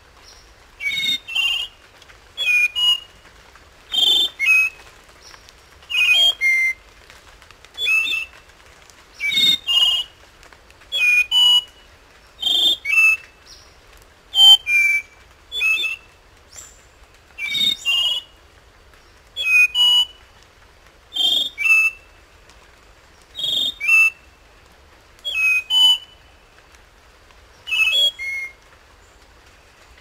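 Spotted nightingale-thrush singing: short, clear, fluty whistled phrases of two or three notes, repeated about every two seconds.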